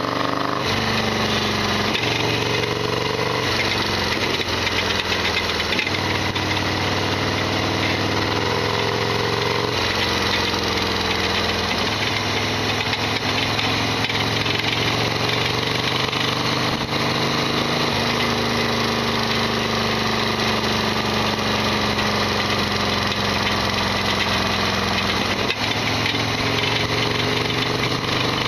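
Harley-Davidson Sportster XL1200R's V-twin engine running under way while being ridden, its note rising and falling several times. The bike is rattly and noisy throughout, from an abnormal mechanical noise that the owner calls loud.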